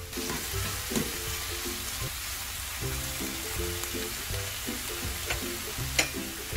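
Shredded pork and scallions sizzling steadily in oil in a nonstick frying pan, stirred with a spatula at first, with a few sharp clicks of the spatula against the pan.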